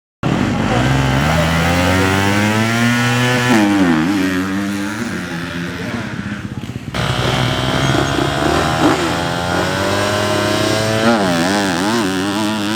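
Motocross bike engines revving hard on the track, climbing in pitch and dropping sharply as the throttle is chopped, about four seconds in and again near the end. The sound cuts in abruptly at the start and changes abruptly about seven seconds in.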